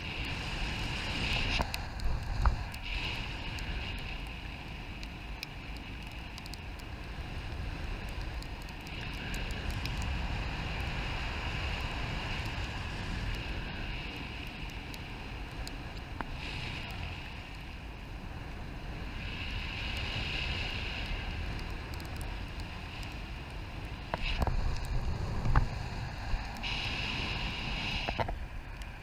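Wind rushing over the microphone, swelling and easing in gusts, with a couple of sharp knocks.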